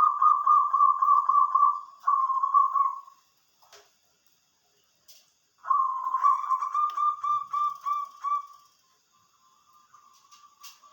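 Perkutut (zebra dove) cooing in two bouts of rapid, pulsed notes on one pitch. The first bout stops about three seconds in, and the second runs from just under six seconds to about nine seconds in.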